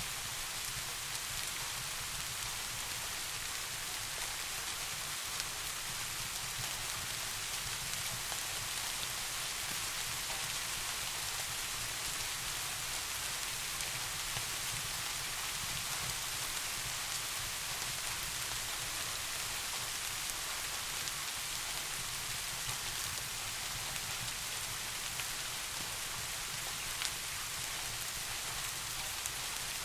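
Steady rain falling, an even hiss with a few scattered sharp ticks, over a steady low rumble.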